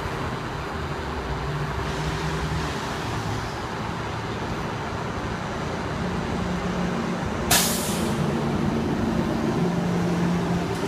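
Garbage truck's diesel engine running steadily, its pitch stepping up about six seconds in. A short, sharp burst of air brake hiss comes about seven and a half seconds in.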